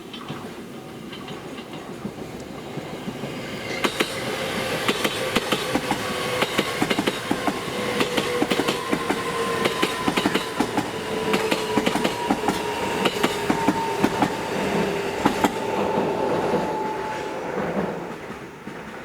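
JR East E129 series electric multiple unit passing, its wheels clacking rapidly over rail joints, with a humming tone from the train that slowly falls in pitch. It grows louder about four seconds in and fades near the end.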